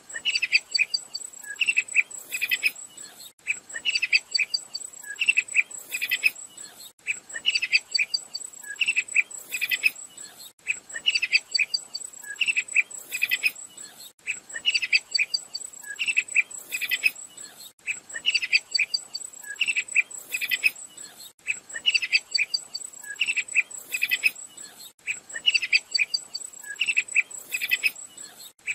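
Sharp-tailed tyrant (Culicivora caudacuta) calling: clusters of short, high chirping notes, the same phrase repeating about every three and a half seconds. A steady high-pitched insect drone runs underneath.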